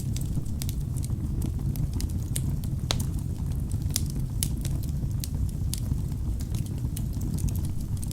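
Wood fire burning in a fireplace: a steady low rumble of flames with frequent sharp crackles and pops from the burning logs, one louder pop about three seconds in.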